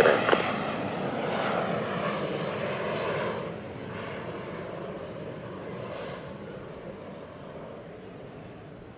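Cessna Citation CJ2 twin turbofan jet climbing away after takeoff, its engine noise fading steadily as it recedes.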